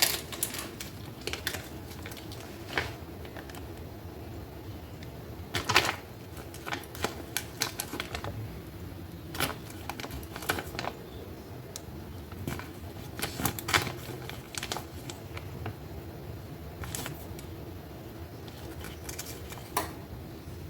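Irregular light clicks and taps as pepperoni slices are laid out by hand on top of a pan of stuffed shells, with a low steady hum underneath.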